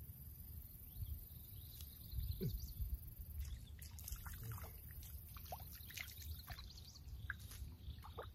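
Birds chirping faintly in quick short calls that pick up about halfway through, over a steady low outdoor rumble.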